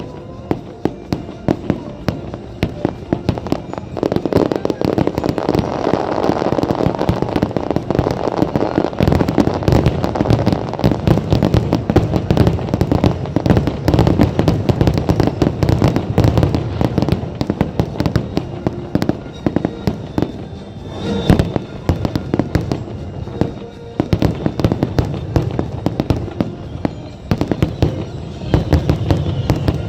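Fireworks show: aerial shells bursting in a rapid, unbroken run of bangs and crackles, with music playing underneath.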